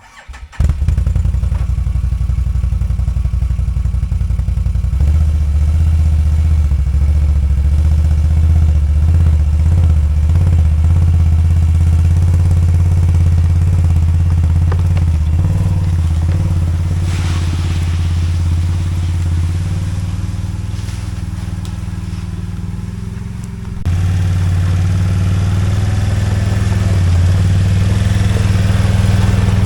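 An engine running steadily and loudly at an even, low pitch. It sags slightly, then steps up abruptly louder late on.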